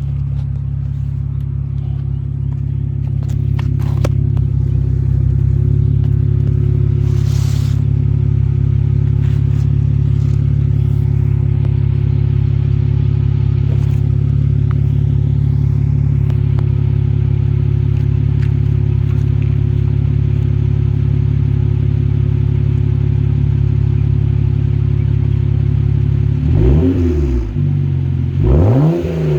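2008 BMW 335i's twin-turbo straight-six running through a muffler-delete exhaust, idling steadily, then revved twice near the end.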